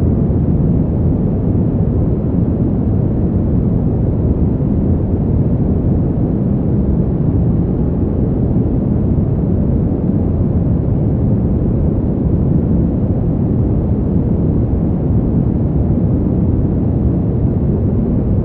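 Steady, deep wind noise: an even, low rumble-like rush with no gusts or breaks, presented as cold winter wind for sleep.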